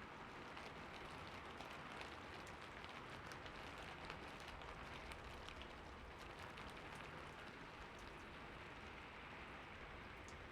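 Soft, steady rain falling on hard surfaces, a faint continuous patter with many small drop ticks.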